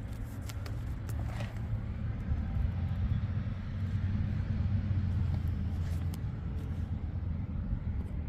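The 1994 Chevrolet Blazer's 5.7-litre 350 V8 running steadily with a low rumble. A few light clicks come in the first second and a half and again around six seconds in.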